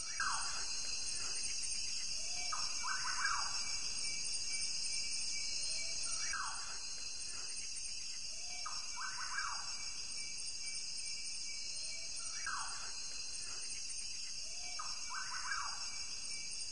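A steady high drone of insects under a bird call: a falling note, then a quick run of notes, repeating about every six seconds.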